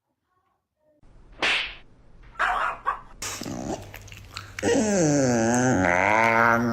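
A pet animal's cries: two short, harsh calls, then a long, loud howl whose pitch wavers up and down.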